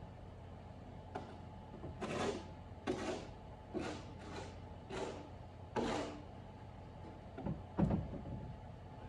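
Snow shovel scraping and pushing fresh snow across a driveway in a run of short strokes about once a second, the heaviest one near the end.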